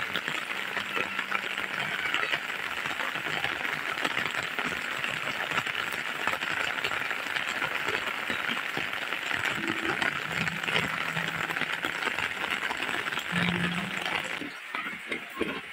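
Heavy rain falling on tiled roofs and paving, a dense steady patter of drops; near the end it thins to sparser, separate drips and splashes.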